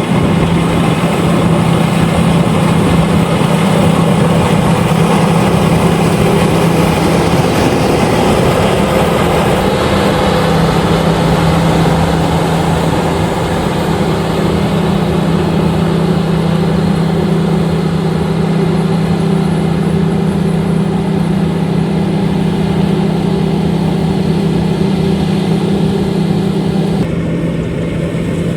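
LOVOL RG130EVO rice combine harvester running steadily, a constant loud machine hum with a steady low tone. The sound turns slightly duller near the end.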